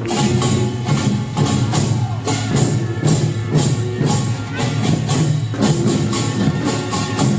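Korean pungmul percussion band playing a fast, steady rhythm: kkwaenggwari small gongs clanging on every beat over janggu hourglass drums and buk barrel drums, with jing gongs ringing low underneath.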